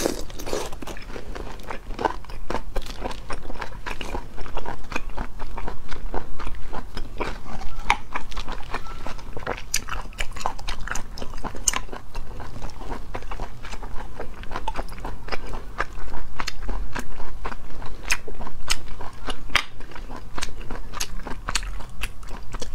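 Close-miked eating of cooked river snails: chewing the chewy snail meat, with many sharp, wet mouth clicks throughout.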